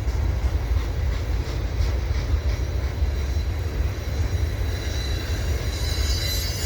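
CN mixed freight train rolling past with a steady low rumble. About five seconds in, a high-pitched wheel squeal starts up from wheels rubbing the rails on the curve.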